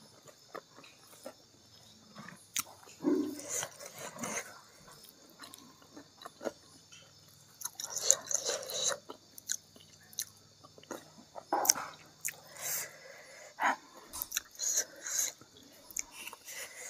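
A person chewing a mouthful of food close to the microphone, with irregular wet lip smacks and mouth clicks, louder in short spells.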